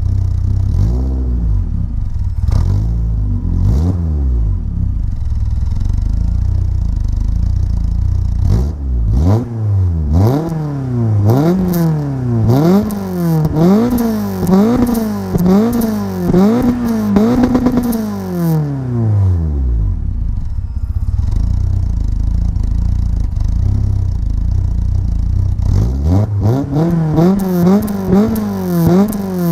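Peugeot 106 Rallye S1's 1.3-litre four-cylinder petrol engine, breathing through a 4-2-1 manifold, a decat 2-inch pipe and a Pugsport exhaust. It idles, then is blipped again and again, the exhaust note rising sharply and falling back each time. A long run of quick blips comes in the middle, it settles to idle, and a few more revs come near the end.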